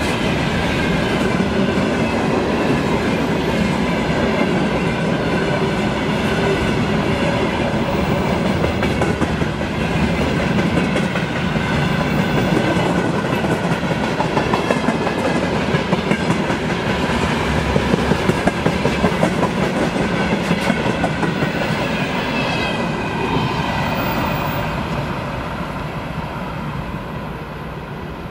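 Freight train of open-top gondola wagons rolling past close by: a steady rumble with the clickety-clack of wheelsets over rail joints, the clicks sharpest a little past the middle. The sound fades near the end as the train moves away.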